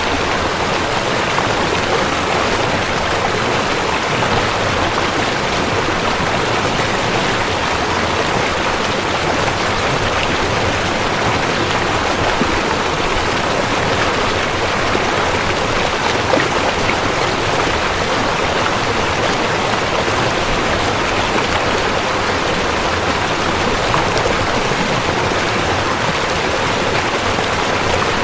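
River water rushing and flowing steadily: a continuous, even wash of noise with no breaks.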